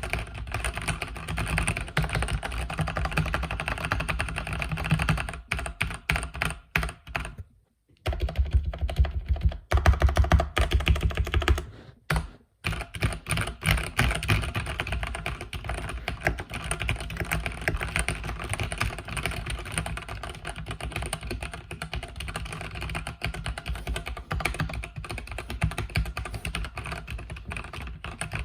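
Continuous typing on a mechanical keyboard with red linear switches: a dense stream of keystroke clacks. The typing stops briefly twice, about seven and a half seconds in and again around twelve seconds, with a louder, heavier run of keystrokes in between.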